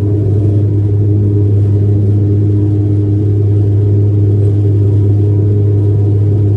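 Steady low drone of a Dash 8-400 turboprop's propellers and engines heard from inside the passenger cabin, dominated by one deep hum with fainter higher tones stacked above it.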